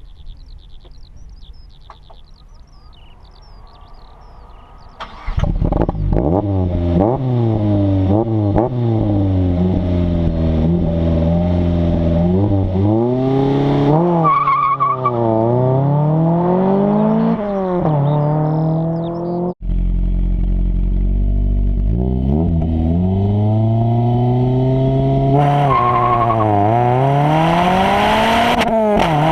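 Onboard sound of a Ginetta G40R's naturally aspirated 2.0-litre Ford Duratec four-cylinder accelerating hard from a standstill, after a few seconds of near-idle with birds chirping. Its pitch climbs through the revs and drops at each upshift. The sound cuts out abruptly about two-thirds of the way in, then the engine picks up again, still climbing through the gears.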